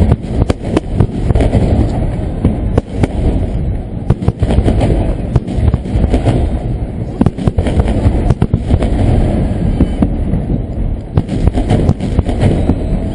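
Fireworks finale barrage: many shells bursting in rapid succession, a dense stream of sharp cracks and booms over a continuous low rumble.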